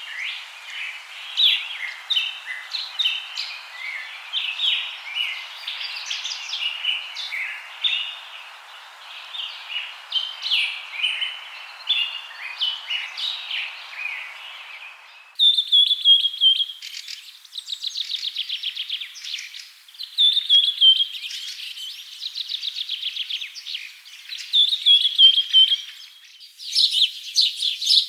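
Many birds chirping and calling together over a steady background hiss. About halfway through, the sound changes abruptly to birds singing repeated rapid, falling trills, with several birds calling again near the end.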